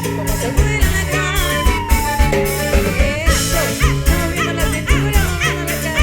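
Folk band playing with accordion, guitar, bass guitar and drum kit, driven by a steady, regular drum beat.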